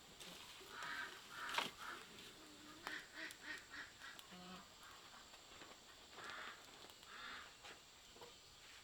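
Farmyard fowl making short, nasal quack-like calls in a few scattered runs, with a couple of sharp knocks.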